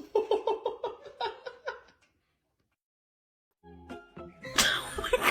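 Quick, rhythmic laughing for about two seconds, then a second and a half of total silence, then background music starts.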